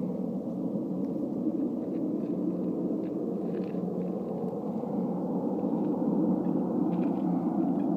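Steady rumble of a Canadair CL-415 water bomber's twin turboprops approaching from a distance, growing slightly louder in the second half.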